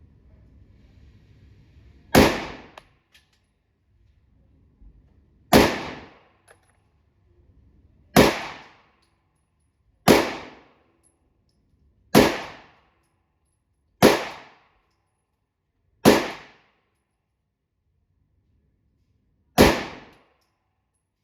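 Eight shots from a 9mm pistol fired slowly, one about every two seconds with a longer pause before the last, each crack followed by a short echoing tail.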